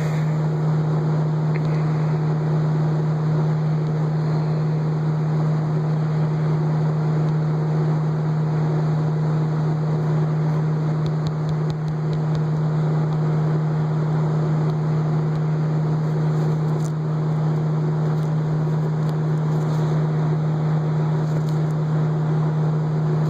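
Electric motor of a G Overhauler shop machine running steadily, with a strong even hum and a constant whirr.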